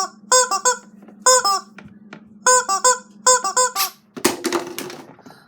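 A squeaky toy squeaked in four quick runs of two or three squeaks, each squeak dropping in pitch, over a steady low hum. A few sharp knocks about four seconds in.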